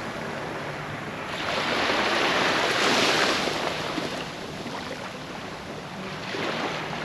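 Ocean surf washing on the beach, one wave swelling to its loudest about three seconds in and then falling away.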